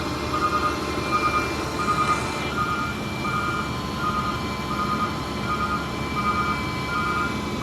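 Roll-off truck's backup alarm beeping steadily, about three beeps every two seconds, over the truck's diesel engine running.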